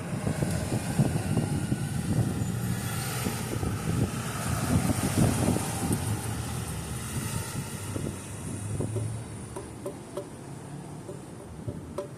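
Strong wind gusting on the microphone, an uneven low rumble that eases after about eight seconds. In the last few seconds a faint, regular ticking comes through, a couple of ticks a second.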